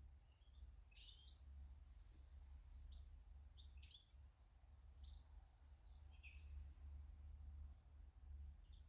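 Faint garden birds calling: short, scattered high chirps, with the loudest call about six and a half seconds in. A low steady hum runs underneath.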